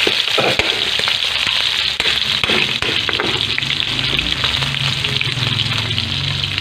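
Chicken pieces sizzling in hot oil in a wok, with a metal utensil clicking and scraping against the pan as they are stirred. A low steady hum runs underneath.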